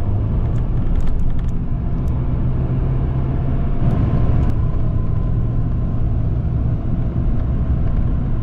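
Tour coach engine and road noise heard from inside the bus: a steady low rumble, with a few light clicks and rattles about a second in and again around four seconds.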